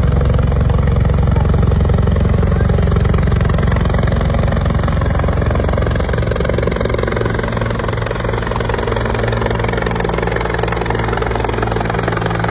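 Helicopter flying, its rotor beating steadily under the engine noise; the low rumble drops a little about halfway through.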